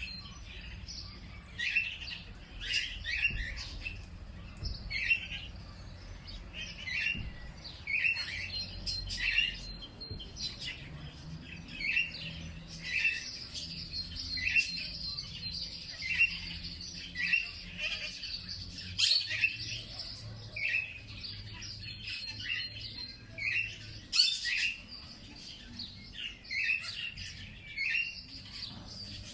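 Songbirds chirping: short repeated calls, roughly one a second, with a fainter high thin trill behind them in stretches and a low rumble underneath.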